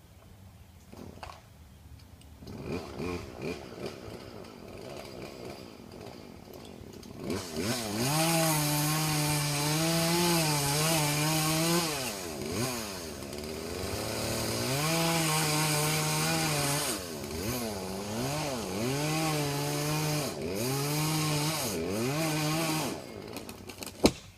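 Chainsaw cutting into an ash tree: it idles quietly at first, then runs at full throttle from about a third of the way in, eases off briefly midway and revs up again. One sharp crack comes near the end.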